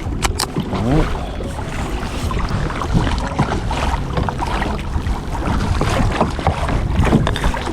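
Water lapping and slapping against a fishing kayak's hull as it moves on open lake water: a steady, uneven splashing with many small slaps.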